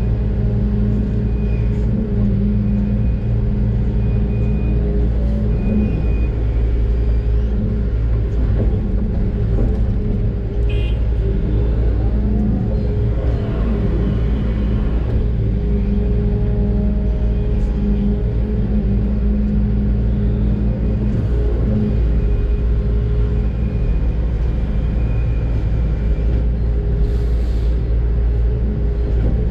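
Doosan DX600 excavator's diesel engine running steadily under work, heard from inside the cab, with a faint high whine that comes and goes.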